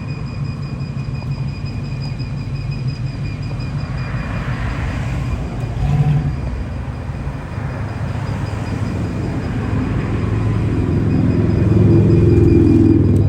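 A vehicle's engine running with a steady low rumble that grows louder over the last few seconds.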